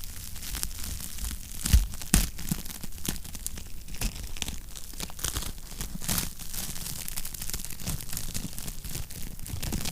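Wood fire crackling in a fireplace: an irregular run of sharp snaps and pops over a low rumble of flame, with two louder pops about two seconds in.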